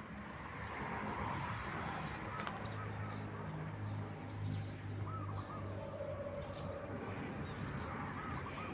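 Birds calling at intervals, a wavering call repeated every few seconds, with short high chirps scattered between, over a low steady hum.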